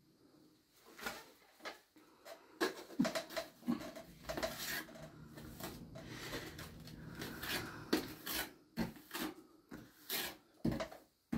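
Irregular scraping and rubbing with scattered light knocks and clatters, the sound of hand work on a rough surface.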